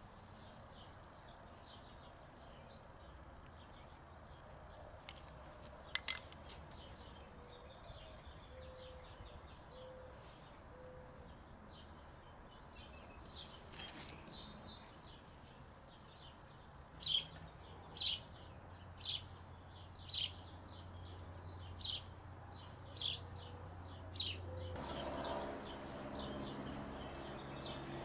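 Birds chirping in the background, with one bird repeating a short call about once a second for several seconds. There is a single sharp click about six seconds in, and a low hum comes in near the end.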